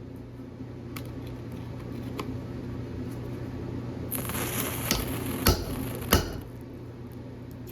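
Three sharp hammer knocks about half a second apart during forging, the last two the loudest, over a steady low hum with a hiss beneath the knocks.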